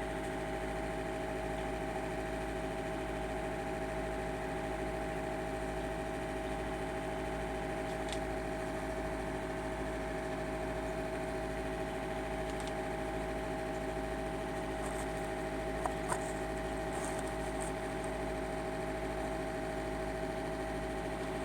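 A steady mechanical hum with one strong constant tone, unchanging throughout, with a couple of faint clicks about 16 seconds in.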